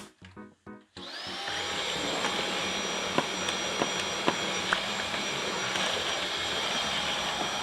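Roborock robot vacuum starting to clean: about a second in its suction fan spins up with a rising whine, then runs steadily with a high-pitched whine over a rushing noise. A few sharp clicks come through a couple of seconds later.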